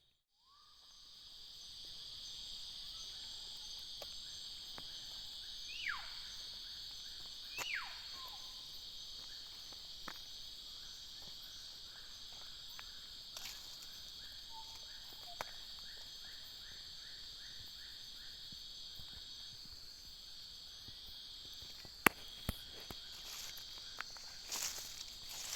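Steady high-pitched chorus of insects with birdsong over it: two loud whistled calls falling steeply in pitch about six and eight seconds in, then a long run of quick soft repeated notes. Near the end a few sharp clicks, one of them the loudest sound.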